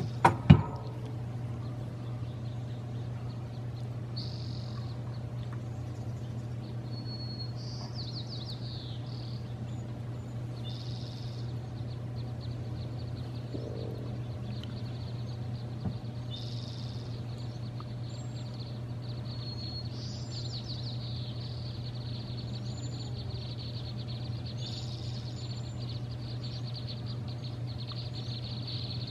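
Small birds calling in short, high chirps and trills, again and again, over a steady low hum. Two sharp clicks come right at the start.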